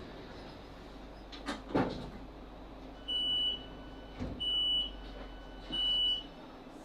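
Class 458 train's door warning beeping three times, each beep about half a second long and evenly spaced, the signal given as the doors are released or open at a station stop. Two knocks come about a second and a half in, over a low steady hum inside the carriage.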